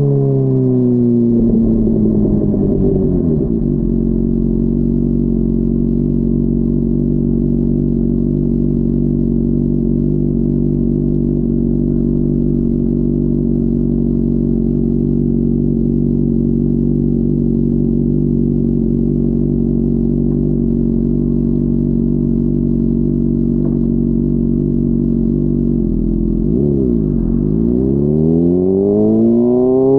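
Honda CBR600RR's inline-four engine dropping revs as the bike slows, then idling steadily for about twenty seconds. Near the end the revs rise again as it pulls away.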